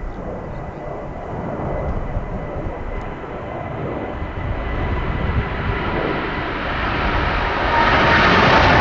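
Airbus A330-900neo's Rolls-Royce Trent 7000 jet engines at takeoff power, a rushing rumble that grows steadily louder and brighter as the airliner approaches.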